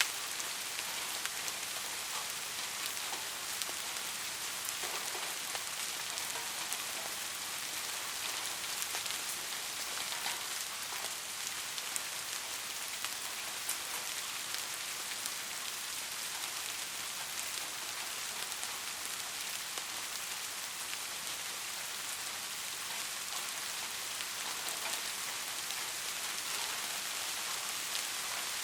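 Steady rain: an even hiss dotted with the taps of individual drops.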